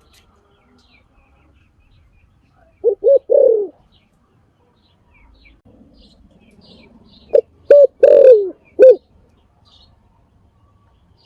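Spotted dove cooing: two phrases, each of two short coos and a longer coo that falls in pitch. The first comes a few seconds in, the second past the middle and ending in one more short coo.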